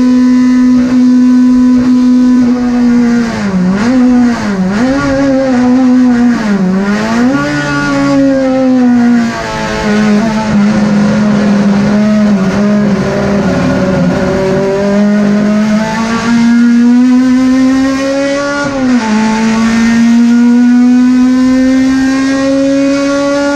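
Racing car engine running hard at high revs. Its pitch dips and recovers several times a few seconds in, runs low and level for a while, then climbs slowly until a sharp drop near the end, after which it climbs again.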